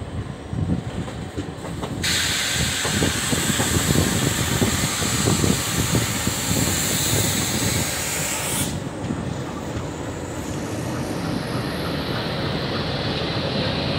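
Passenger train running on the rails, heard from on board, with a steady rumble and repeated wheel knocks over rail joints. A loud hiss cuts in abruptly about two seconds in and stops just as suddenly about six seconds later.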